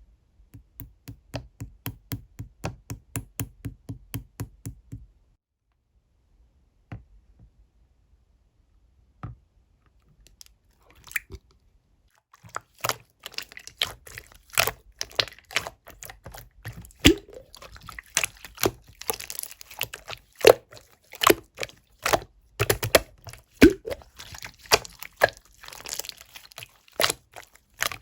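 Clear slime being pressed and squished by hand, making sticky popping and clicking sounds. A regular series of pops about four a second for the first five seconds, a nearly quiet stretch with a few single pops, then dense crackling pops from about twelve seconds in.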